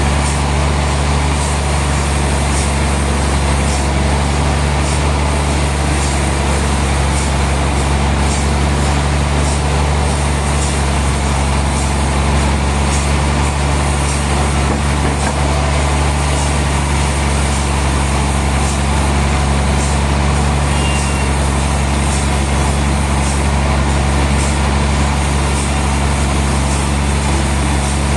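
Heavy sawmill machinery running steadily with a deep, even engine-like hum and no change in load, over a faint regular ticking a little more than once a second.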